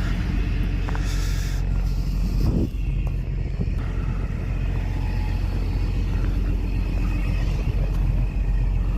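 Steady engine drone and road noise of a vehicle driving on a highway, heard from inside the cab.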